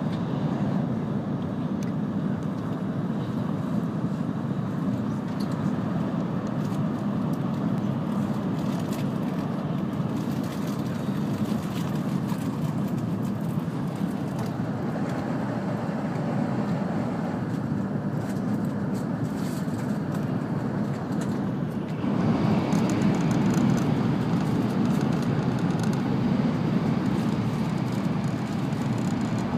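Steady rumble and rush of an N700-series Shinkansen running at speed, heard from inside the passenger cabin; the noise grows louder and brighter about three quarters of the way through.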